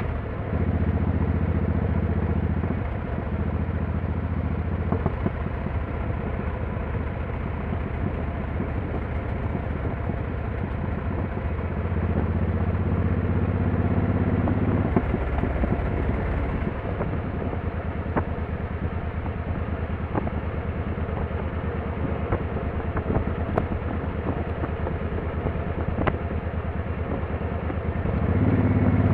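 Motorcycle engine running while under way, with steady road and wind noise. The engine note eases off about three seconds in and again past the middle, then builds up again near the end.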